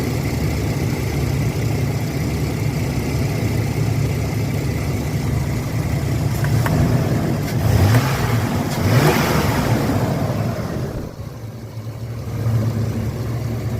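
Chevrolet 4.3-litre Vortec V6 running at idle, revved up and back down about eight seconds in, then settling back to idle. Its ignition timing has just been advanced slightly to cure an erratic misfire.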